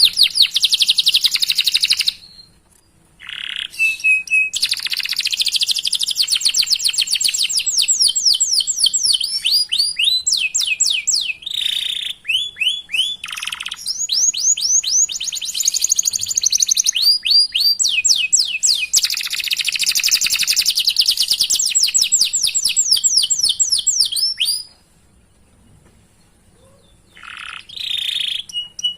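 Domestic canary singing a long song of fast, evenly repeated chirps and rolling trills. It breaks off briefly near the start and for a few seconds near the end.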